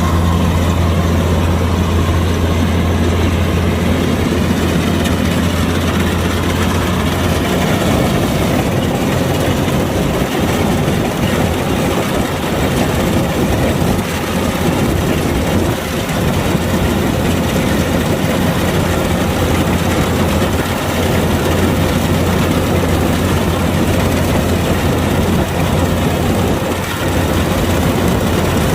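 Kubota DC-105X rice combine harvester's diesel engine running steadily, with a strong low drone and the busy rattle of the machine's working parts on top.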